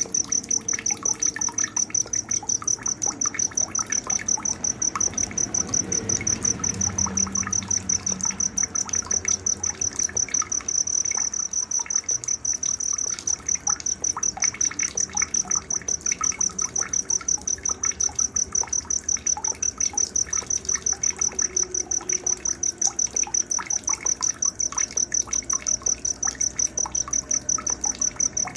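Night nature ambience: a cricket chirping in a high, even pulse, about three chirps a second, with short scattered bird chirps over it.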